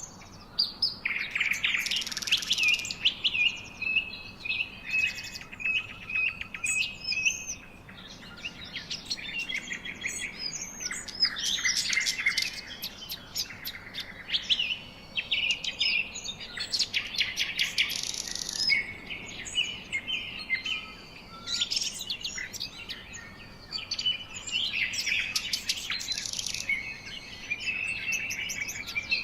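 Several songbirds singing and chirping at once, with quick trills, rapid chirp series and whistled notes overlapping throughout.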